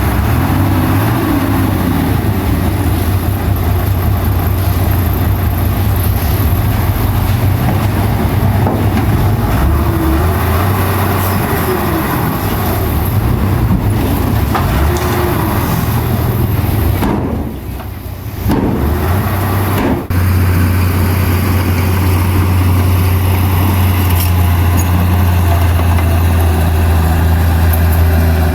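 Heavy diesel engine of earthmoving equipment running steadily under load, with a deep drone and a wavering higher engine note. The sound drops away briefly about two-thirds of the way through, then returns.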